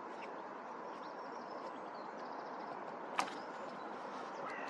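Faint steady background hiss with a few faint high chirps, and one sharp click about three seconds in.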